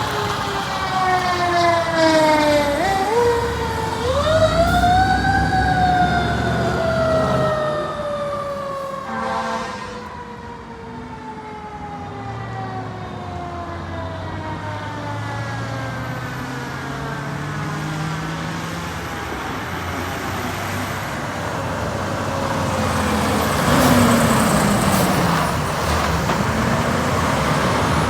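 Fire truck siren winding down in pitch, wound back up briefly about three seconds in, then coasting slowly down, over the running diesel engines of the arriving fire trucks.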